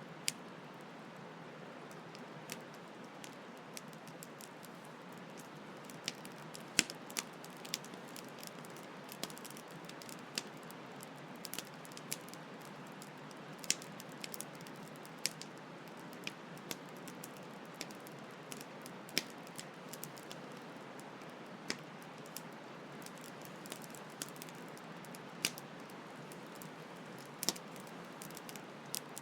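Campfire crackling: irregular sharp pops and snaps from the burning wood, a few every second, over a steady soft rush of flowing stream water.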